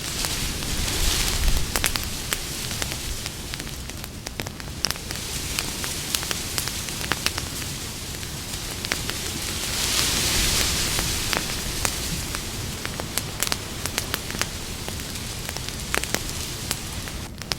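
Wood campfire crackling, with many sharp pops and snaps over a steady hiss of burning. The hiss swells briefly about a second in and again around ten seconds in.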